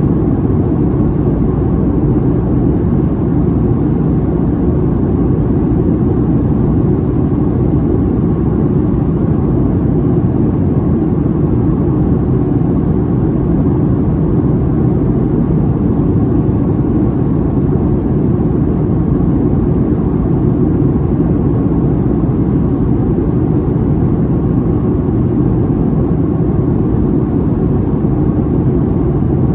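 Steady cabin drone of a Boeing 737-700 in flight, heard from a passenger seat: the CFM56-7B engines and rushing airflow blend into an even, low-pitched noise with no changes.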